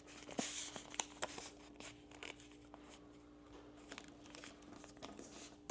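Sheet of A4 paper being folded and creased by hand: faint, intermittent rustling and crinkling with a few sharper clicks, busiest in the first second or so.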